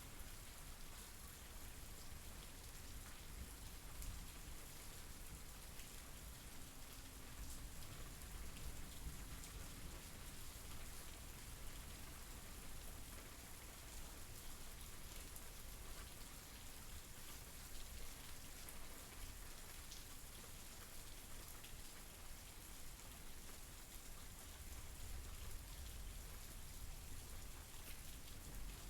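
Steady, fairly soft rainfall, with scattered drops pattering on a surface.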